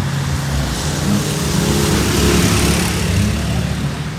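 Small midget racing car's engine running steadily under way, with a hiss of tyres on the wet track that swells about midway.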